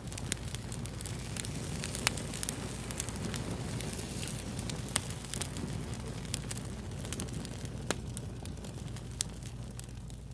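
Wood fire crackling, with sharp pops scattered irregularly over a steady low hiss and rumble; the loudest pops come about two and five seconds in.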